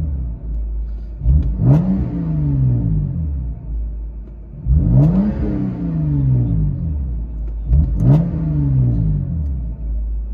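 BMW 128i's straight-six revved three times through an exhaust with a Cherry Bomb glass pack, heard from inside the cabin; each rev climbs quickly and falls back slowly to idle.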